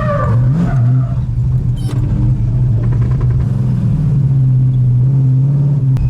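Car engine running at a steady, held pitch under way.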